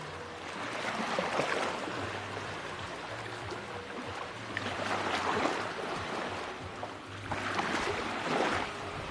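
Sea waves breaking and washing onto a beach, the surf swelling three times: about a second in, around five seconds, and near the end.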